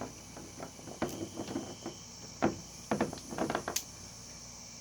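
Scattered clicks, knocks and rustles of paracord being handled as a knot is tied in it, with crickets chirring steadily behind.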